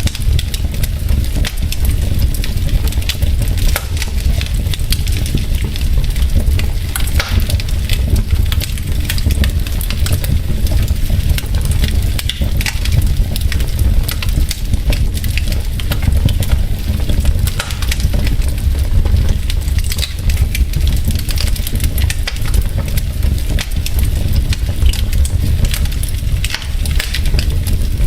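Log fire in a fireplace crackling, with frequent irregular sharp pops and snaps over a steady low rumble.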